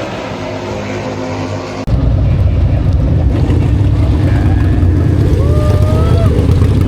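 Motorcycle engine running steadily under way. About two seconds in, the sound cuts abruptly to a louder, deeper, steady engine drone.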